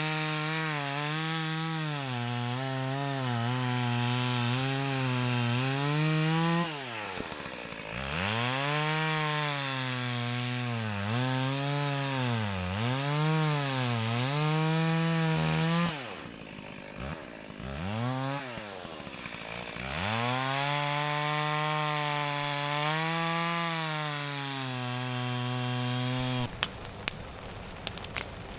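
Chainsaw running in four stretches with short breaks between them, its pitch dipping and recovering as if working through wood, before it stops shortly before the end.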